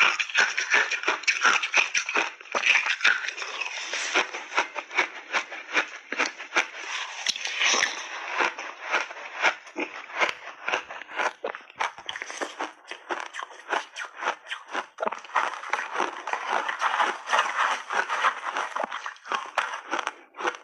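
Refrozen flavoured block ice being bitten and chewed close to the microphone: a dense run of crisp crunches, several a second, with brief lulls.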